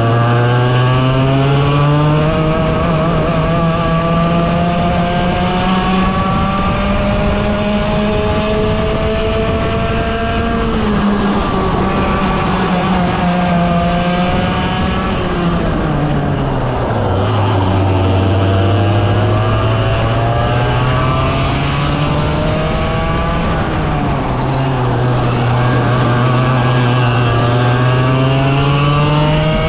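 A 100cc racing kart engine held at high revs, its pitch climbing on the straights and dropping sharply as it slows for corners, twice near the middle and once more later, then climbing again.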